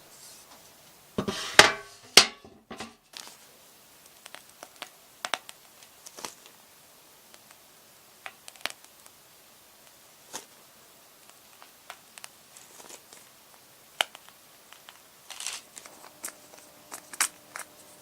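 Kitchen handling sounds while making meringue cookies: a loud crinkling about one to three seconds in, then scattered light clicks and taps.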